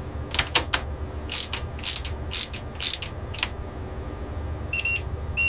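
Sharp mechanical clicks and clanks of the mount-securing hardware engaging, about a dozen in the first three and a half seconds, over a steady low hum. Near the end come two short beeps and a final loud click.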